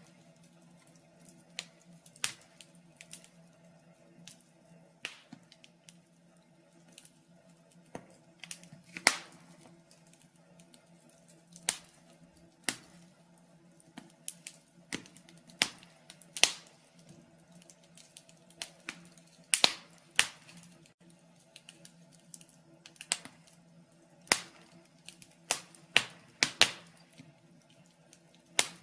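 Wood fire in a fireplace crackling, with irregular sharp pops and snaps, sometimes two or three close together, over a faint low steady hum.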